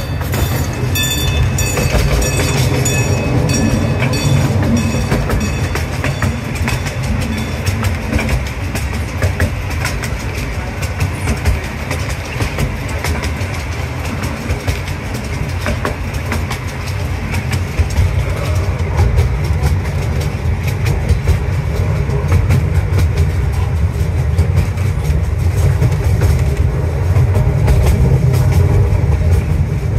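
Miniature railway passenger cars rolling along the track: a steady low rumble with frequent clicks of the wheels over the rail joints. A level-crossing bell rings at the start and fades away within a few seconds.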